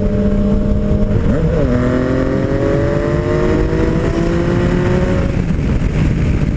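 Yamaha MT-09 Tracer's inline three-cylinder engine accelerating hard, its pitch rising steadily from about a second and a half in until about five seconds in, then levelling off, with a constant rush of wind noise.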